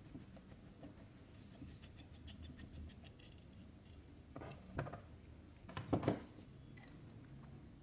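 Small metal carburetor parts being handled on a work surface. A run of faint quick ticks comes first, then light clinks and knocks, with the loudest pair about three-quarters of the way through.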